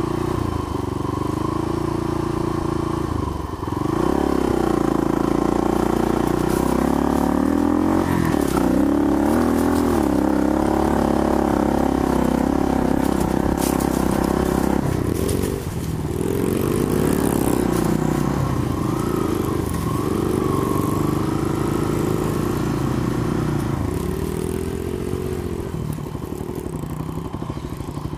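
Small single-cylinder four-stroke engine of a Honda 70 dirt bike being ridden, its revs rising and falling with the throttle, dropping off briefly about three seconds in and again about fifteen seconds in.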